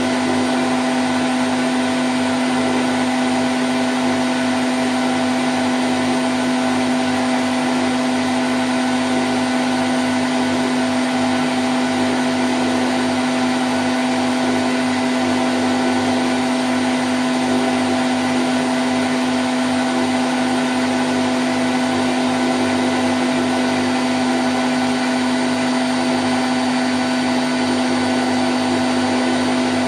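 Candy Grand O' F106 front-loading washing machine in its spin cycle at 1000 rpm, running at a steady speed: an even whirring noise with a constant hum.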